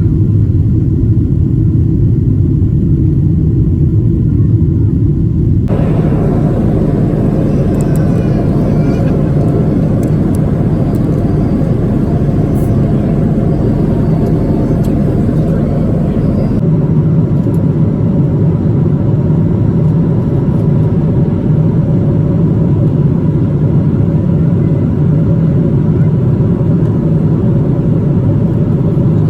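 Steady, loud jet cabin noise inside a Boeing 777-200: engine and airflow rumble heard from a passenger seat. The noise changes abruptly about six seconds in and again near seventeen seconds.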